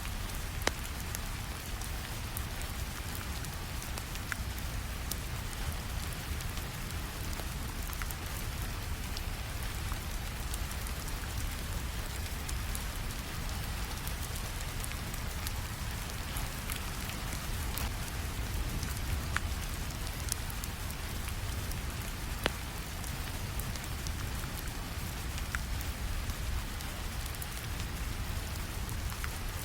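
Steady rainfall over a low rumble, with scattered sharp crackles and pops of a wood fire.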